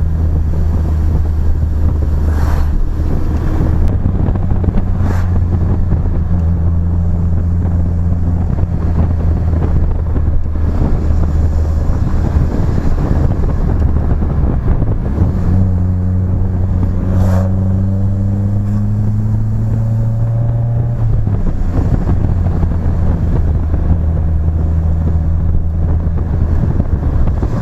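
BMW E30 with a new exhaust driving at steady revs, with wind blowing across the microphone. About halfway through the engine pulls up slowly in revs for several seconds, then drops back suddenly.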